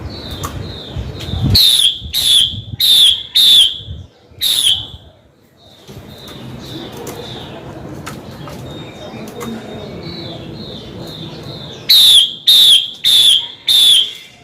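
Female Chinese hwamei calling: loud, sharp down-slurred notes about two a second, in two runs of four or five, with softer repeated notes between the runs.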